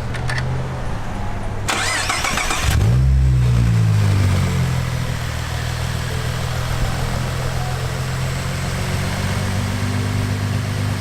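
Car engine cranked by its starter for about a second, then catching with a brief rev flare that falls back and settles into a steady idle, most likely the Mustang's twin-turbo 3.7-litre V6. A low engine idle is already running beneath it at the start.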